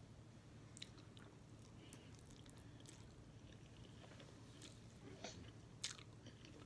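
Faint chewing and mouth sounds of someone eating ramen noodles, with scattered soft clicks and a couple of sharper smacks about five and six seconds in.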